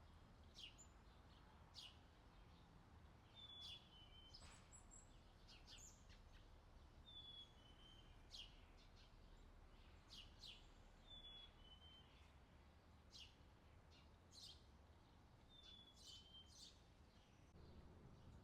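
Faint outdoor summer ambience: a bird repeats a short two-note falling call every few seconds, among other brief sharp chirps, over a steady low background.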